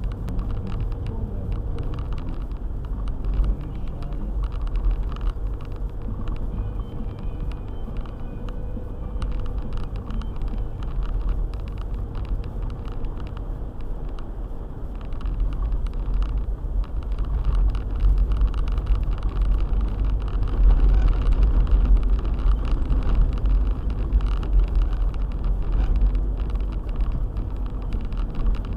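Car driving on a snow-covered road: a steady low rumble of engine and tyres, growing louder from a little past halfway for about ten seconds.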